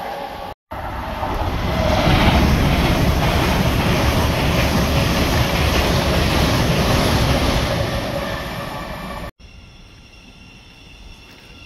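LNER Azuma express multiple unit passing through the station at speed: a loud, steady rush of wheels on rail and air that builds over the first two seconds and eases off toward the end. It cuts off suddenly and is replaced by a much quieter scene with a faint steady whine.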